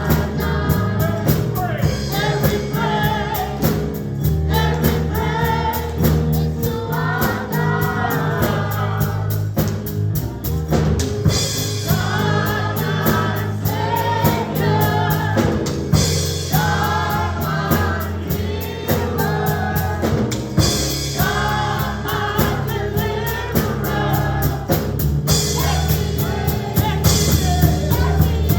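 Gospel choir singing with a live band: drums keep a steady beat over a low bass line.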